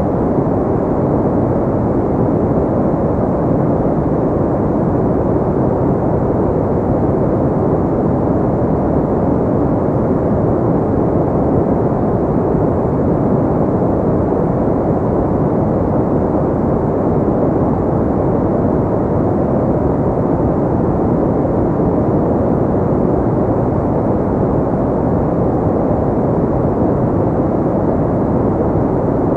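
Synthetic pink noise: a steady, even rushing noise with its weight in the low and middle range and little treble. It does not change at all.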